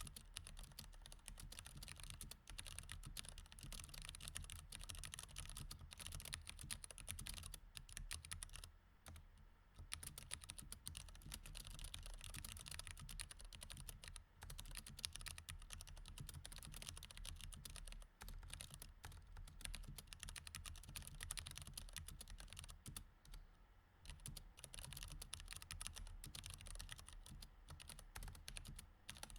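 Mechanical keyboard with Cherry MX Red switches being typed on quickly and continuously: a fast, quiet run of key clicks with a few short pauses.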